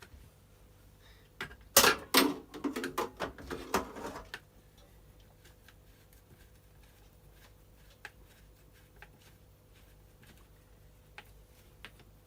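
A quick run of clicks and knocks from hand tools and plastic parts being handled, starting about two seconds in and lasting about two seconds, then only sparse faint ticks over a steady low hum. This is the handlebar and trigger housing being fitted back onto a Stihl FS240 brush cutter.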